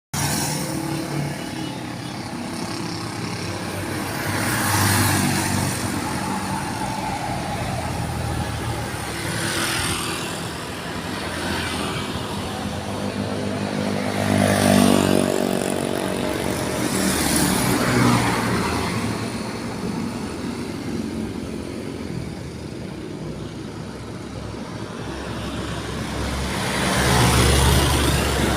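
Road traffic: a steady run of vehicle engines and tyre noise, with several vehicles passing one after another, the loudest about halfway through and again near the end.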